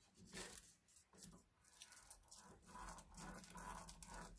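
Faint rubbing of a rubber brayer roller being rolled over glued paper, with light handling clicks; the rolling is a little louder about three seconds in.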